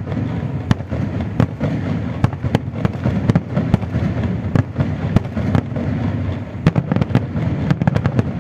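Aerial firework shells bursting in quick, irregular bangs over a steady low rumble.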